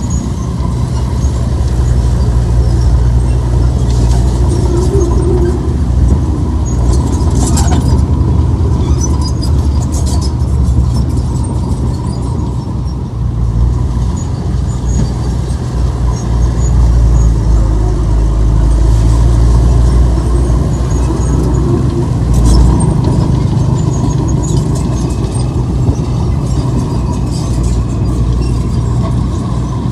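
Heavy diesel earthmoving machinery working under load, the engine drone rising and falling, with a few short metallic clanks.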